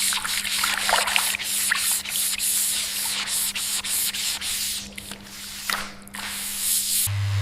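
Rapid rasping strokes on a surface, a few a second, over a steady low hum. A louder electric buzz starts near the end.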